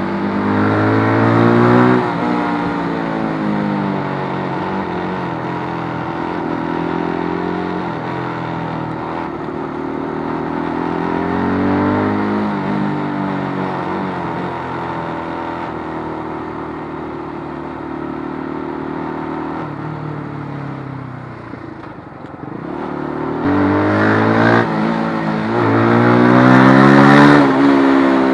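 Keeway RKF125 motorcycle's single-cylinder 125 cc engine revving up and down several times, its pitch climbing and falling, dipping briefly about three-quarters of the way in and then rising to its highest and loudest near the end before dropping back.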